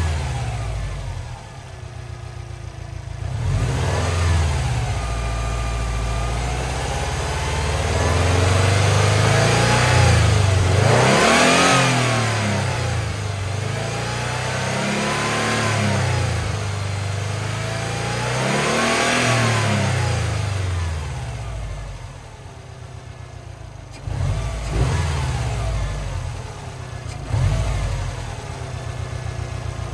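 Subaru WRX STI's turbocharged 2.5-litre flat-four, straight-piped with the muffler deleted, free-revving with the car standing still. The revs rise and fall several times, settle back to idle about two-thirds of the way in, then come two short, sharp throttle blips.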